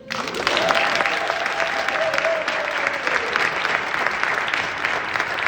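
Audience applauding, starting suddenly as the piano stops, with a long cheer from one voice over the first few seconds.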